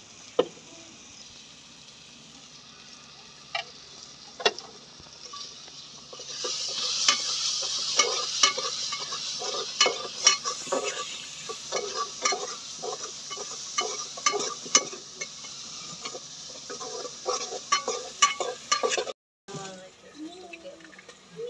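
Chopped onion, tomato and green chilli frying in a metal pot, while a steel spoon stirs and scrapes against the pot. About six seconds in the sizzle grows louder, with frequent clicks of the spoon on the pot.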